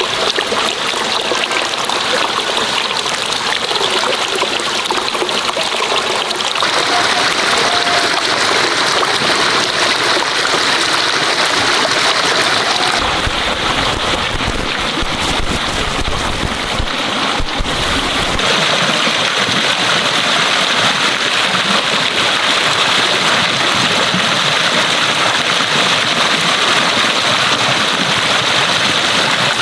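Steady rush of running water, changing character suddenly about six and thirteen seconds in, with a low rumble added for several seconds in the middle.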